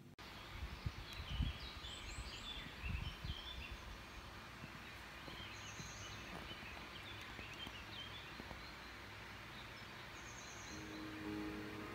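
Outdoor ambience of small songbirds chirping and twittering, with two short high trills, over a steady background hiss. A few low thumps come in the first few seconds.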